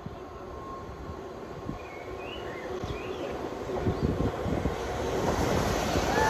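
A train approaching, its noise growing steadily louder.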